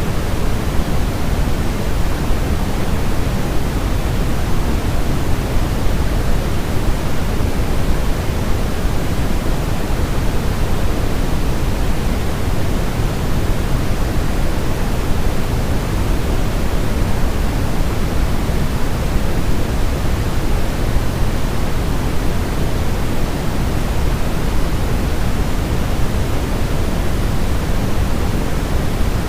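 Steady pink noise, a constant even hiss weighted toward the low end, played continuously as a baby sleep sound.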